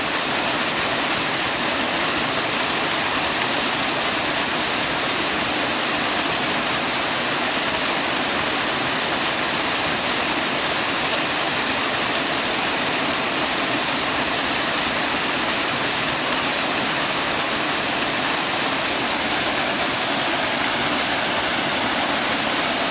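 Small waterfall pouring over layered rock and splashing into the pool below: a steady, unbroken rush of falling water.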